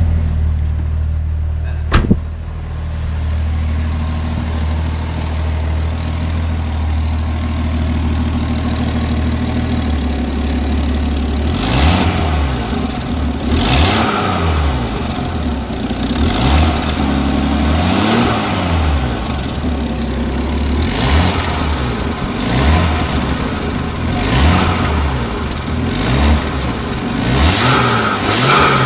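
1997 Nissan Skyline R33's turbocharged straight-six idling, with a single sharp knock about two seconds in. From about ten seconds on it is revved again and again, about every two seconds, and each rev brings a sharp hissing rasp from the turbo. This is exhaust escaping through a blown turbo-to-manifold gasket.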